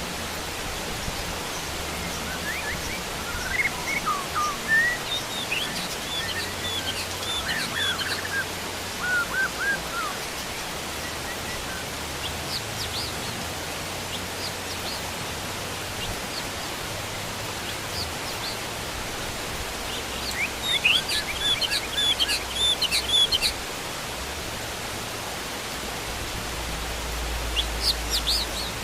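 Steady heavy rain, an even hiss, with wild birds calling and chirping over it in two bursts of activity, one in the first third and another a little past the middle.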